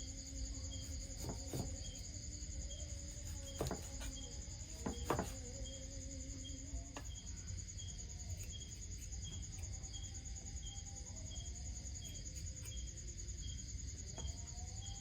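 Crickets and other insects chirping: a steady high trill with a regular chirp repeating about every 0.7 s, with a few sharp knocks in the first five seconds.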